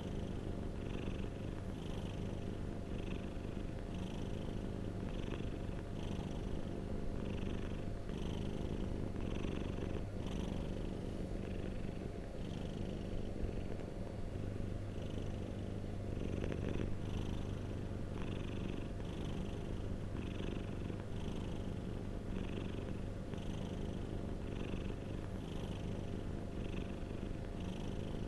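Domestic cat purring steadily: a continuous low rumble with a faint higher hiss that pulses a little more than once a second.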